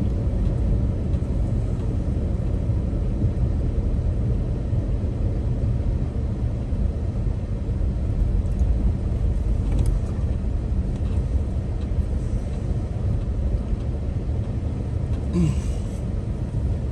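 Toyota Sequoia SUV driving, a steady low rumble of engine and tyres.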